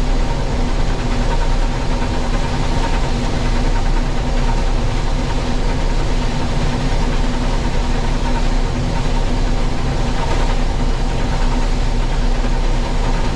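International Harvester 1440 combine running steadily under load while cutting and threshing soybeans: a continuous machine drone with a steady hum.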